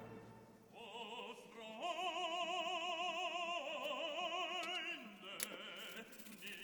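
Music with operatic singing: long held notes with a strong, wide vibrato, starting about a second in.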